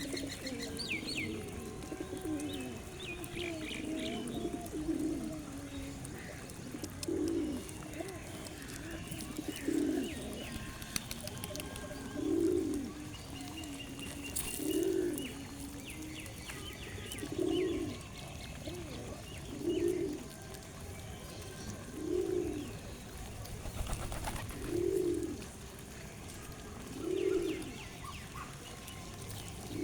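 A pigeon cooing over and over, one low coo about every two and a half seconds, with small birds chirping and twittering in the background.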